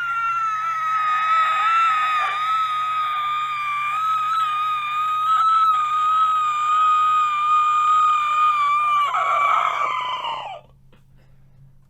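An animated void creature's wordless answer: one long, high-pitched scream held at a nearly steady pitch for about ten seconds, then cut off.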